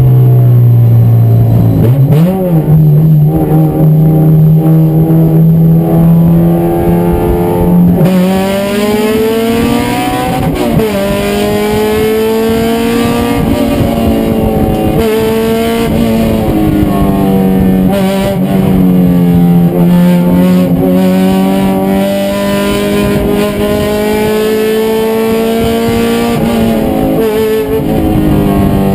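Race car engine running hard at high revs, holding steady at first, then rising and falling repeatedly through the rev range, with short dips in pitch as it changes gear.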